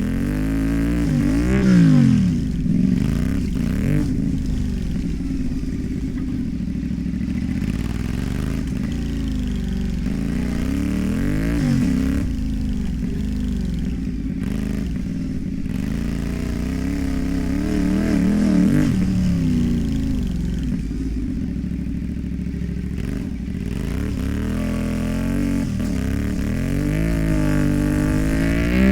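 CFMOTO 450MT's parallel-twin engine through a modified exhaust, being ridden hard: it revs up and eases off again and again, its pitch climbing and dropping with throttle and gear changes.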